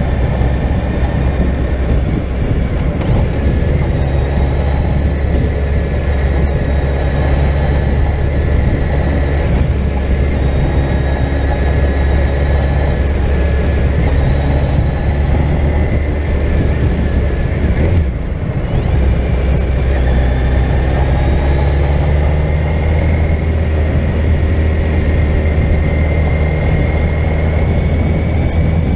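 Suzuki GSX1400's inline-four engine running steadily with the bike under way, a continuous low hum whose pitch drifts slowly up and down, with a brief dip about two-thirds of the way in.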